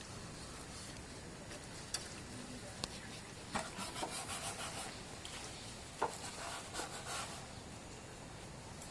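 Rubbing and scrubbing strokes on a motorcycle being washed: a quick run of strokes in the middle, with sharp clicks about two and three seconds in and a louder one about six seconds in.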